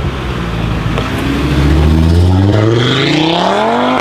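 Audi RS3 8V Sportback's turbocharged 2.5-litre five-cylinder, fitted with a Milltek downpipe and no secondary catalytic converter, accelerating hard. A low steady note for about a second gives way to a note that climbs steadily in pitch for about three seconds, then drops sharply near the end as it changes up a gear.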